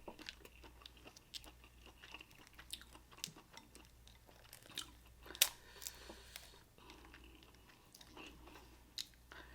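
Faint, close-miked eating sounds: chewing with scattered small clicks and crunches from someone eating a seafood boil of crab legs and lobster tails. One sharper crack comes about five and a half seconds in.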